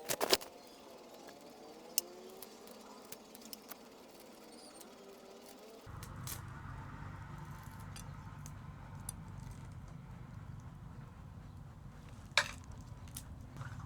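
A few sharp clicks and taps over a quiet background. About six seconds in, a steady low noise sets in suddenly and runs on under further light taps.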